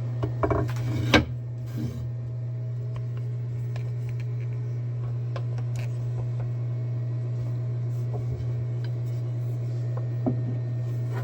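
Clicks and knocks of a wooden cue shaft being handled and fitted between the lathe's dead and live centers, the loudest about a second in, with scattered small ticks later, over a steady low machine hum.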